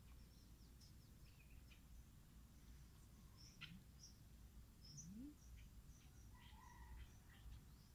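Faint, scattered short high chirps of small birds over a faint low rumble.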